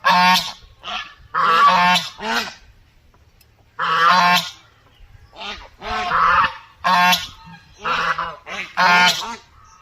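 Domestic white duck quacking loudly: about ten harsh, nasal quacks in short runs, with a pause of about a second partway through.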